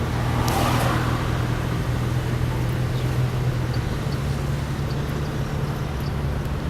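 Steady low road and engine rumble of a car, heard from inside the moving vehicle, with a brief rustle under a second in.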